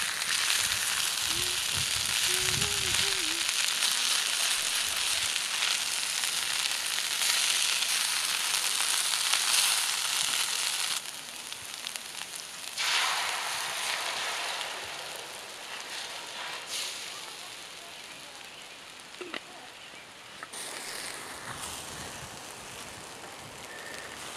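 Hash browns frying in a hot pan over a wood-burning camp stove, a steady sizzle. It dips off about eleven seconds in, comes back, then slowly dies down and picks up again near the end.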